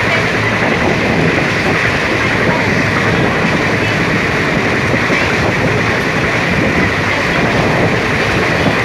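Passenger express train running steadily at speed, heard from an open coach window: a continuous rumble and rush of the wheels on the rails and the air going past.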